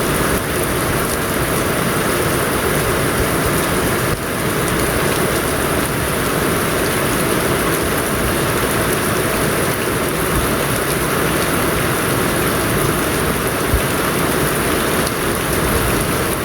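Steady rainfall: an even, continuous hiss of heavy rain.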